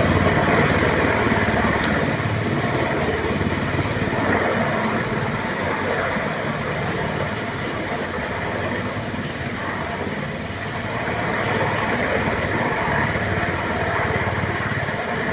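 Mi-26 heavy helicopter running, a steady loud rotor and turbine noise with a thin high whine, easing a little about two thirds through and building again.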